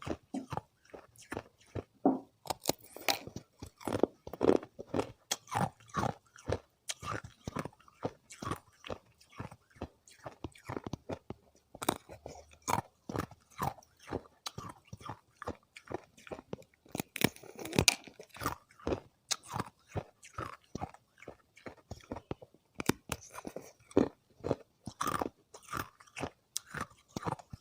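Thin ice disks being bitten and chewed close to the microphone: sharp, irregular crunches and cracks several times a second.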